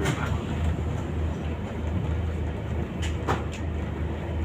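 Inside a Scania K280UB city bus under way: the steady low drone of its rear-mounted diesel engine and road noise, with a sharp rattle from the body at the start and another pair about three seconds in.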